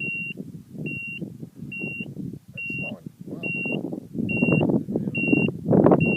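A short, high electronic beep repeating evenly, a little more than once a second, over a low, uneven rumble that grows louder near the end.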